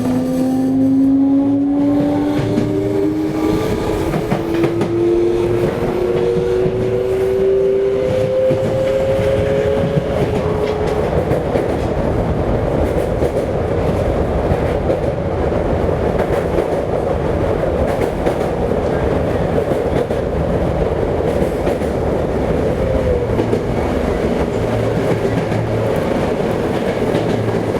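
Toei 5300 series electric train running, heard from inside the car: the traction motors' whine rises steadily in pitch as the train picks up speed for about the first ten seconds, then gives way to steady running noise with wheels clicking over rail joints.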